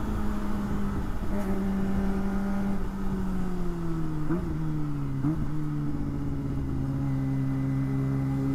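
Kawasaki Ninja ZX-25R's 250 cc inline-four engine running under way, its note falling steadily as the bike slows for traffic, with two brief blips partway through. Wind buffets the unshielded helmet microphone.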